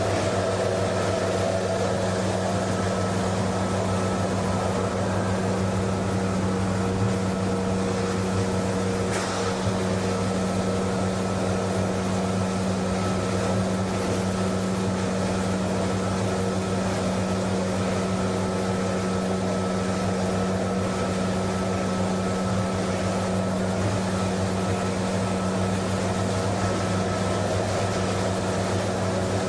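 PE/PP plastic recycling washing line running steadily: electric motors give a constant hum over continuous machinery noise.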